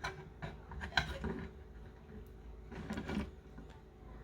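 A few light clicks and knocks as the soldering iron's metal holder mount is handled and set against the soldering station's housing.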